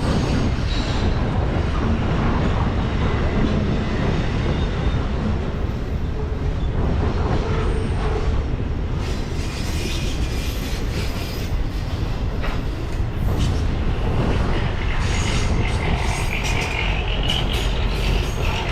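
Freight train rolling past: the steady rumble of its wheels on the rails, with the wheels squealing near the end.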